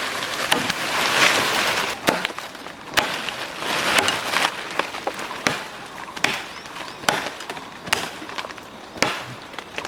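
Irregular sharp chopping knocks, about a dozen strokes at uneven spacing, as of a blade or tool striking wood, with brief stretches of rustling noise between some strokes.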